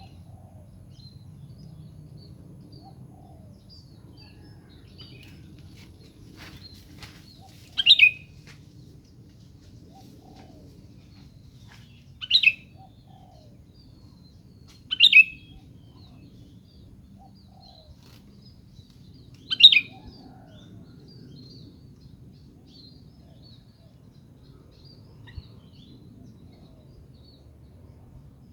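Sooty-headed bulbul (kutilang) calling: four short, loud calls several seconds apart, with faint chirps between them over a low steady hum.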